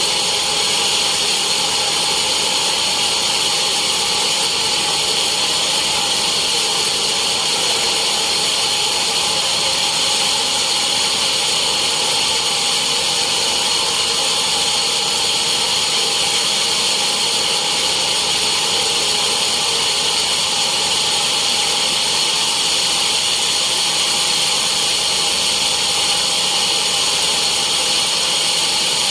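Sawmill saw running steadily with a loud, even, high-pitched mechanical whine that does not change.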